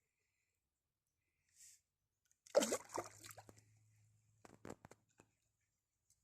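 A brief slosh and splash of water about two and a half seconds in, followed by a few sharp clicks; otherwise near silence.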